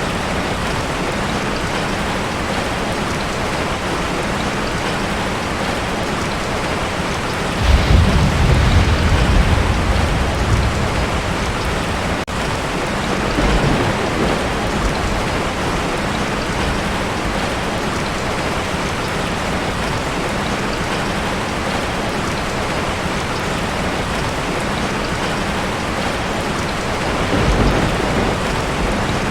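Heavy rain falling steadily on a tin roof. Thunder breaks suddenly about eight seconds in and rumbles for about three seconds, with two fainter rumbles later, the last near the end.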